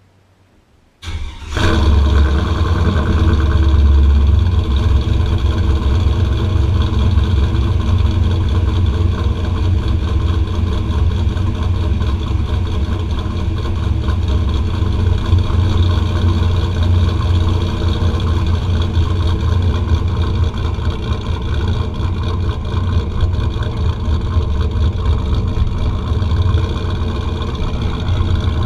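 Cammed 2003 Chevrolet Silverado 5.3-litre V8, on Gibson headers with no catalytic converters, 2.5-inch true duals and a Magnaflow muffler, started up about a second in. It catches almost at once, runs a little higher for a few seconds, then settles into a steady, deep idle.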